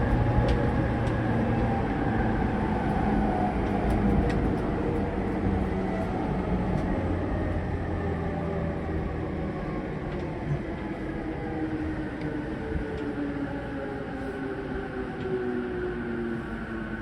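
E231-series electric train's motor car running on the rails as it slows down, the traction motor and inverter whine slowly falling in pitch under braking while the overall running noise eases.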